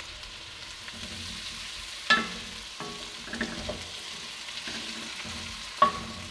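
Smoked turkey wings, onions and bell pepper sizzling in butter in an enameled Dutch oven while being stirred and turned with a wooden spoon. Two sharp knocks with a short ring, about two seconds in and near the end, and softer scraping in between.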